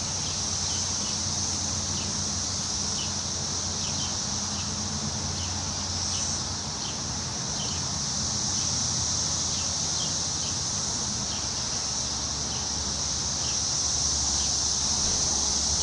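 Wind rustling tree leaves under a steady, high-pitched insect drone, with a short chirp repeating a little more than once a second and a low rumble underneath.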